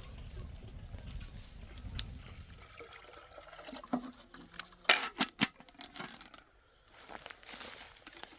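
Dry crackling and rustling, like wheat stalks or straw being handled, with a quick cluster of sharp snaps about five seconds in. A low rumble fills the first few seconds.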